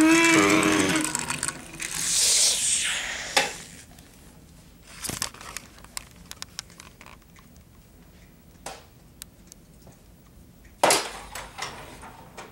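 Toy cars clattering: scattered sharp clicks and knocks, the loudest about eleven seconds in, after a brief child's voice at the start and a rushing hiss about two seconds in.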